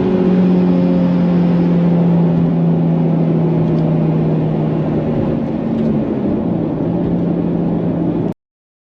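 Nissan Fairlady Z's V6 engine running through an aftermarket exhaust, a steady drone whose pitch sinks slowly as the revs come down. The sound cuts off abruptly near the end.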